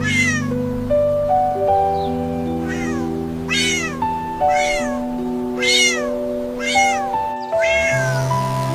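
Kitten mewing over and over, about seven short high-pitched mews roughly a second apart, over gentle background music with a slow melody of held notes.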